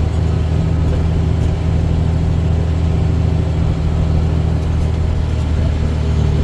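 Dump truck's diesel engine running steadily under way, a loud, even low drone heard from inside the cab.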